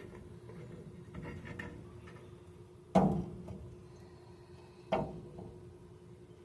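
Two sharp metal clanks about two seconds apart, the first louder, after some softer clatter: hand tools and brake parts being handled and set down while the rear brake caliper bracket comes off. A faint steady hum runs underneath.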